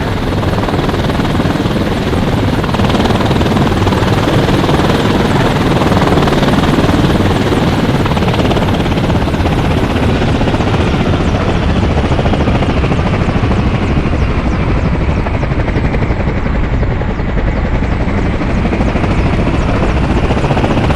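Helicopter running with a steady, loud rotor and engine noise. The higher hiss thins out in the second half and comes back near the end.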